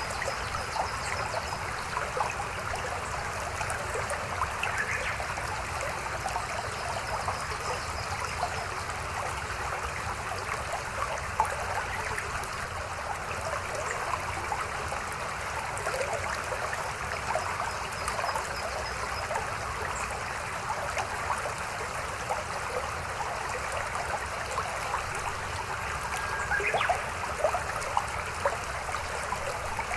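Shallow mountain stream babbling steadily, with many small irregular splashes.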